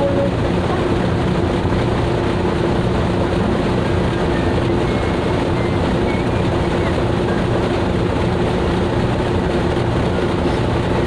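A fishing boat's engine running steadily: a constant, unbroken drone with a steady hum.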